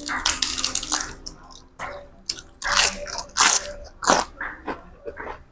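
Close-up chewing of a mouthful of spicy pork salad with crisp raw vegetables, in a run of irregular loud crunches.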